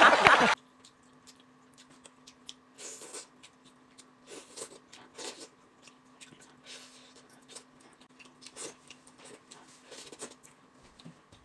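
Close-up eating sounds: soft, irregular chewing, biting and sucking on pieces of braised pork, with small clicks of chopsticks, over a faint steady hum. A loud sound at the very start cuts off about half a second in.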